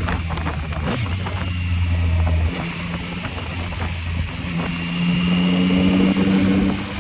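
Yamaha MT-09's three-cylinder engine under way, with wind rush: the engine note falls away about two and a half seconds in as the throttle eases, then picks up again at a higher pitch about four and a half seconds in and holds until near the end.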